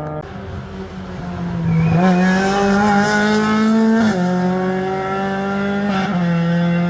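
Rally car engine running hard under load on a forest stage. Its note climbs slowly, then steps down sharply about four and again about six seconds in.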